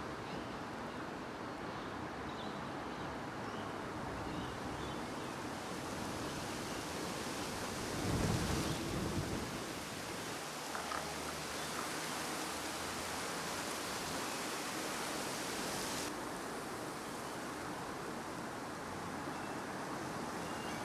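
Steady wind noise on the microphone, with a stronger gust about eight seconds in. Faint bird chirps in the first few seconds.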